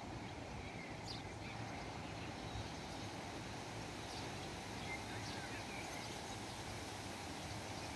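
Swallows chirping faintly in short, scattered calls over a steady low outdoor rumble.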